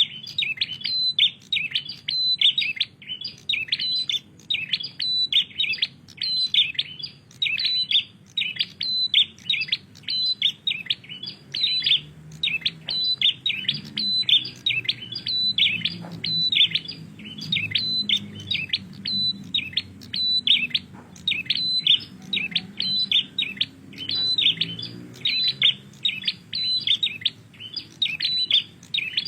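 A prinia singing vigorously and without pause: short, sharp, high chirping phrases repeated about twice a second.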